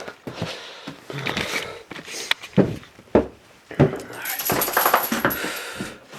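Small metal objects jingling and clinking as they are handled, with several sharp knocks and a longer rustle in the second half.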